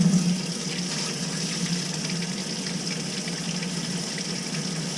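Sink faucet turned on and running steadily into the basin, a brief surge at the start and then an even flow, drawing hot water through the newly installed thermostatic mixing valve.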